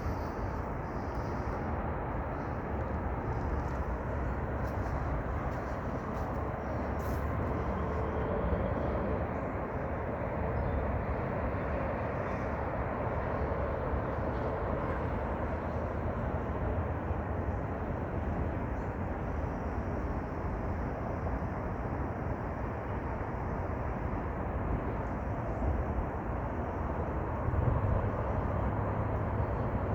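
Steady rumbling noise with no distinct events, the low rumble swelling slightly near the end.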